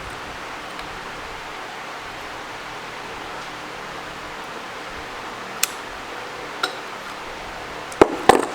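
Steady room hiss with two light clicks midway and a quick clatter of sharp clicks near the end, small metal parts and tools being handled.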